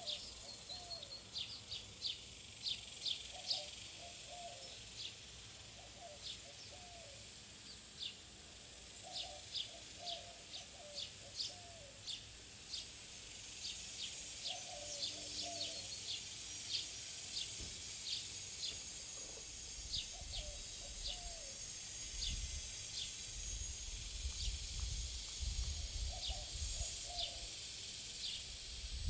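Small birds at a feeder chirping over and over in short, sharp, high notes, with a lower chattering call every few seconds. A low rumble of wind on the microphone comes in during the last third.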